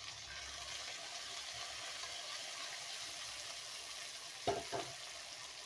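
Freshly added chopped tomatoes sizzling in hot oil with fried onions and curry leaves in a kadai: a steady frying hiss, with two light knocks about four and a half seconds in.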